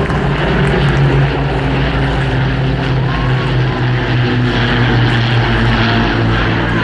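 Supermarine Spitfire Mk XIX's Rolls-Royce Griffon V12 piston engine running steadily in flight, a low propeller-driven drone.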